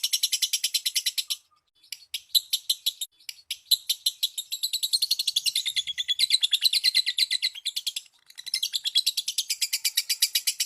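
Lovebird chattering in a long, fast trill ('ngekek') of high, rapidly repeated notes at about ten a second, breaking off briefly about a second and a half in and again near eight seconds before resuming.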